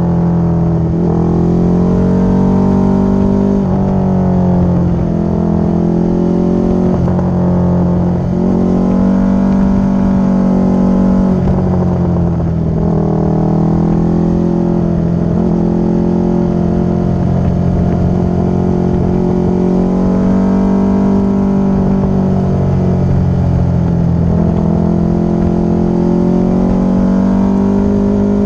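Motorcycle engine running while riding, its note dipping and climbing again several times in the first half as the throttle changes, then holding fairly steady.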